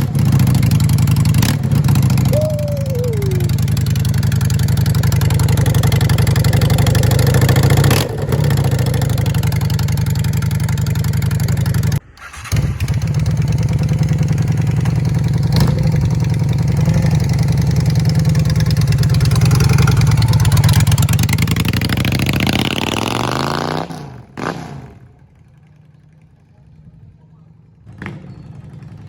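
1996 Honda Shadow's V-twin motorcycle engine running steadily, then winding down and cutting off about 24 seconds in.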